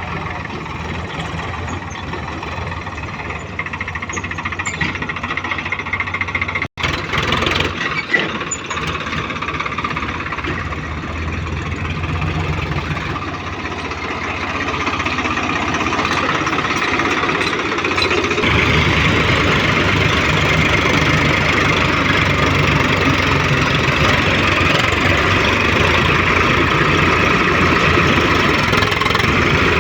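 Tractor diesel engine running steadily, with a brief break about seven seconds in; about eighteen seconds in the engine sound gets louder and fuller.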